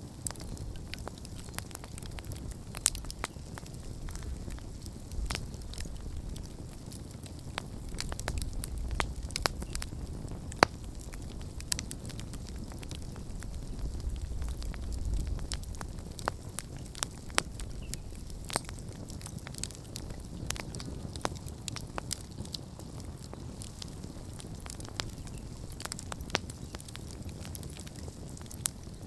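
Wood campfire crackling, with frequent sharp, irregular pops over a low rumble that swells twice.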